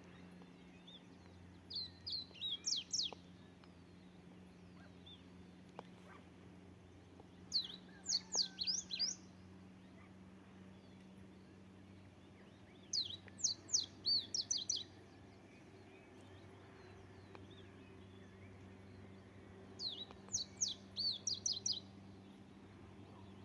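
A songbird singing four short phrases of rapid, high chirping notes, one every five or six seconds, over a faint steady low hum.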